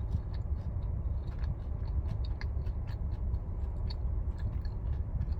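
A person chewing a mouthful of fried chicken strip close to the microphone, with many small irregular mouth clicks, over a low steady hum.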